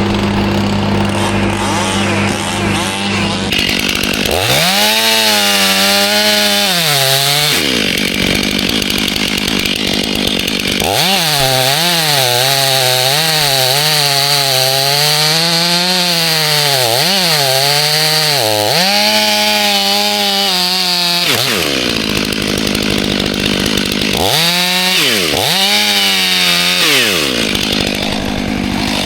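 Chainsaw idling between cuts, revved up three times to cut through wood, with the pitch dipping and wavering under load; the middle cut is the longest.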